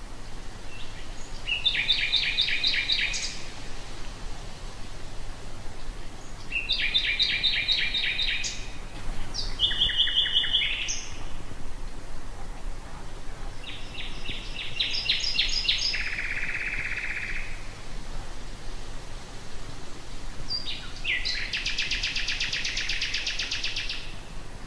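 Common nightingale singing: five separate phrases of fast repeated notes with pauses between them, the fourth phrase ending in a lower buzzing trill and the last phrase a long, loud rattling trill near the end.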